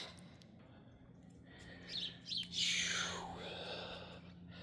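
Birds chirping: a few short high calls about two seconds in, then a longer call that slides down in pitch, and more short chirps near the end, over a faint steady low hum.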